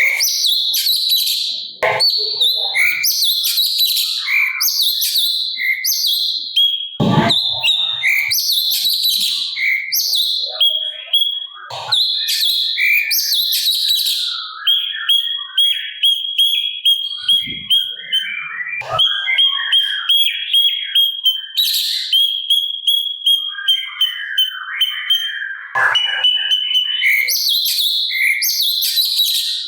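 A cucak cungkok songbird singing loudly and continuously in short, repeated high chattering phrases. In the second half it shifts to long, steady trills. A few sharp knocks cut in briefly.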